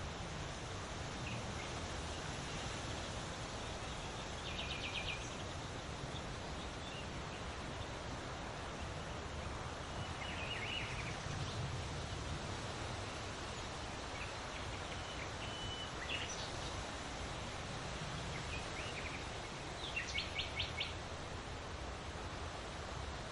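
Wind rustling large leaves, a steady hiss, with birds chirping now and then: short rapid trills about five seconds in, around the middle, and a louder run near the end.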